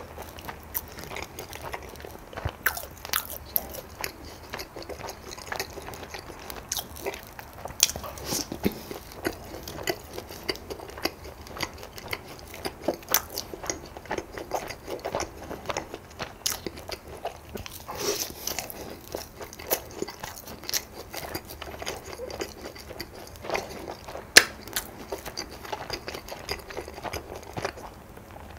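Close-miked eating: a person chewing and crunching food, with many irregular crisp bites and wet mouth clicks.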